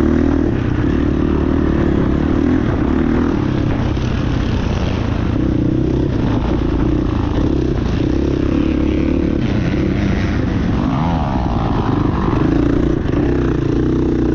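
Motocross bike engines running hard on the track, their pitch rising and falling as they rev through the gears, swelling and fading without a break.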